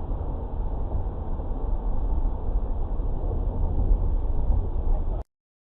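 Steady low rumble of a moving car's road and engine noise, with no impact in it, cutting off suddenly about five seconds in.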